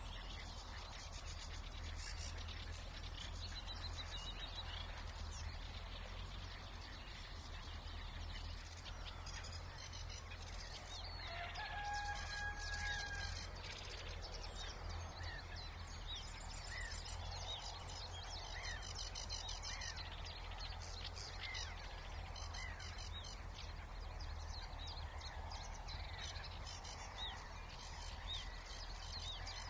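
Spring birdsong in a reedbed and marsh reserve: several small songbirds singing and calling in overlapping phrases, with one louder, drawn-out call about twelve seconds in. A steady distant low rumble of noise pollution lies underneath.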